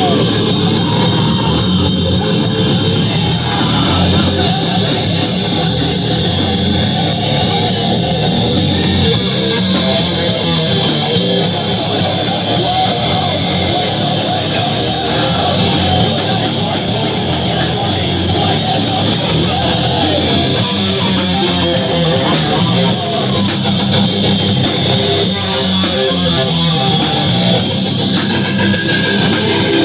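Rock band playing live: guitar and drum kit, loud and continuous.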